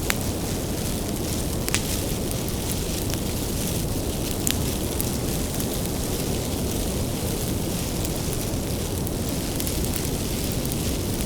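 Wood fire burning with a steady low rumble, and sharp pops and crackles of burning firewood a few times.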